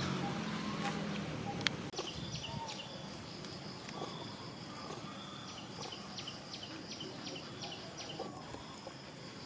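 High-pitched animal chirping: a steady, shrill call with a run of rapid pulses, about four a second, near the middle. A low engine hum fades out in the first second or so.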